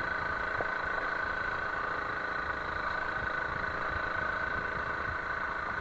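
Honda CRF300L Rally's single-cylinder engine running steadily, with an even hum and no change in revs.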